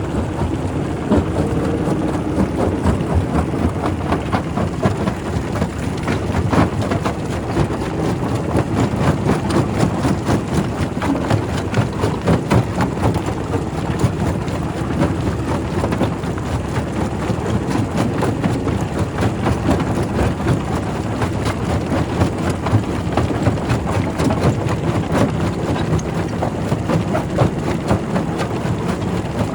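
Quarry primary rock crusher running and crushing stone: a continuous heavy rumble with a dense clatter of rock cracking and knocking.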